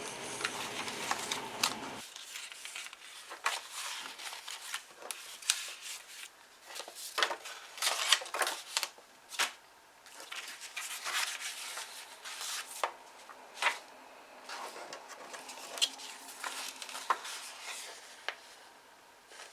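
Paper pages being turned and handled: irregular crisp rustles and light taps, a few louder page flips among softer shuffling.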